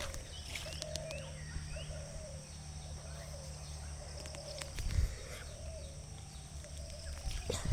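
Indian peafowl (peacock) giving a series of short repeated calls, with small birds chirping and a steady high whine. A low thump about five seconds in.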